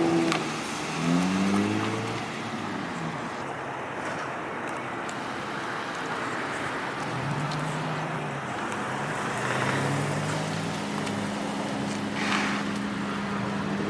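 Car engines running, with one engine revving up in a quick rising pitch about a second in, then further engines running over a steady traffic hum.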